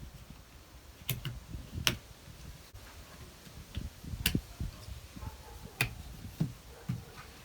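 Sharp plastic clicks of a wiper blade being fitted onto its wiper arm, its latch clips snapping into place: four loud clicks spread over several seconds, with a few fainter knocks between them.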